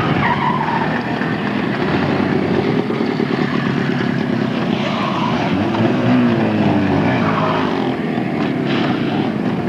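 Motorcycle engines running and being revved, the engine pitch rising and falling several times over a continuous engine drone.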